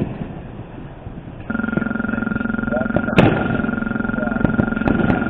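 Accessible pedestrian crosswalk signal sounding its steady electronic buzzing tone, starting about a second and a half in, as it signals the walk phase. A single sharp crack sounds about halfway through.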